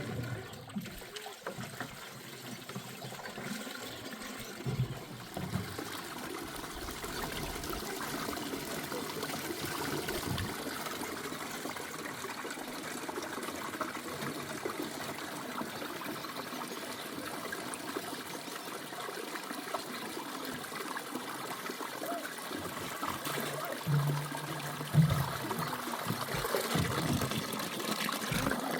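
Water trickling and running steadily, with a few brief knocks, the loudest about 25 seconds in.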